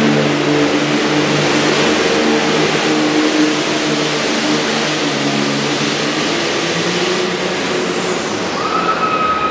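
Super farm class pulling tractor's turbocharged diesel engine running hard at high revs under load, a loud steady drone with slight shifts in pitch. A high falling whine and a steady whistle come in near the end.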